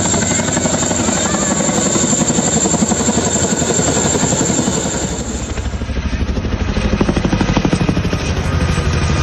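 Helicopter flying at an air show, its rotor beating fast and steady over the engine noise; about six seconds in the sound turns deeper.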